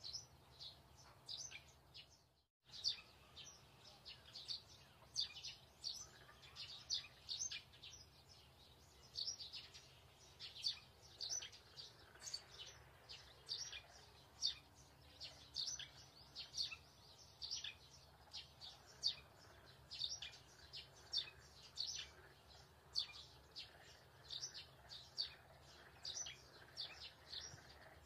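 Small birds chirping: a steady run of short, high chirps, several a second, over a faint low hum. The sound drops out for a moment about two and a half seconds in.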